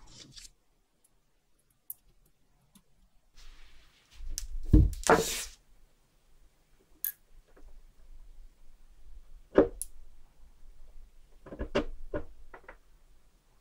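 Handling noises: a few sharp clicks and knocks, the loudest about five seconds in, and a quick run of small clicks near the end.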